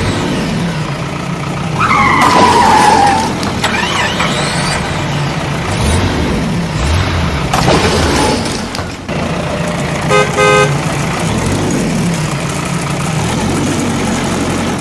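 Cartoon vehicle sound effects: engines running steadily, with a falling squeal about two seconds in and two short horn honks about ten seconds in.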